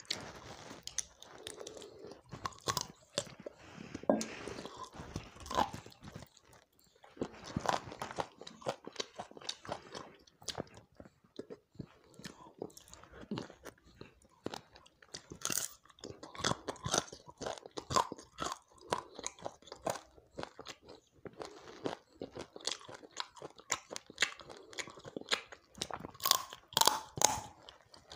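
Close-miked chewing and crunching of fried chicken leg pieces, with many irregular sharp crunchy bites and a couple of quieter pauses between mouthfuls.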